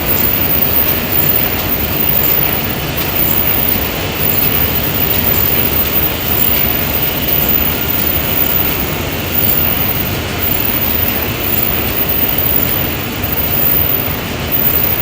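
Non-woven bag-making machinery running steadily in a factory, a loud continuous mechanical noise.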